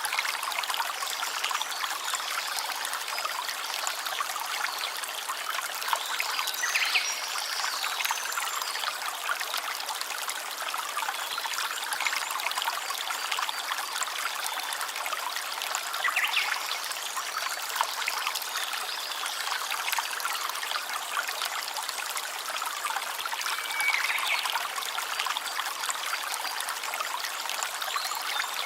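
Small stream trickling and babbling steadily over stones, with a few short, faint high calls now and then.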